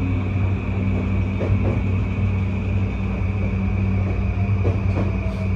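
Running noise inside a JR East E235-1000 series electric train car in motion, with Mitsubishi full-SiC VVVF traction equipment: a steady hum and rumble from under the floor, a few light clicks, and a faint whine that slides slowly down in pitch near the end.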